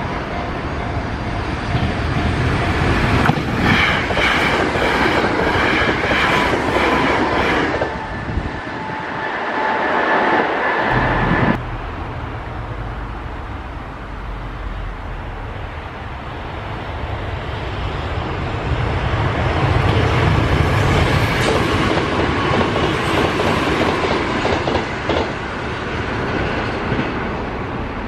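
Sanyo Electric Railway direct limited express trains passing at high speed, wheels clattering over the rail joints, with tones that fall in pitch as the first train goes by. About twelve seconds in, the sound cuts abruptly to another train that swells up and passes.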